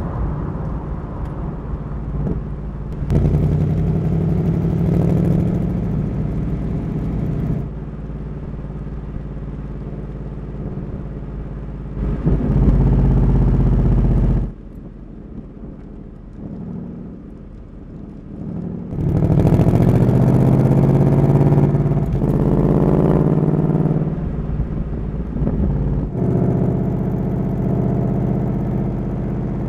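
Ford Mustang Mach 1's 5.0-litre V8 running and revving in several stretches, its pitch rising as it picks up speed, with a quieter, lower-revving spell in the middle.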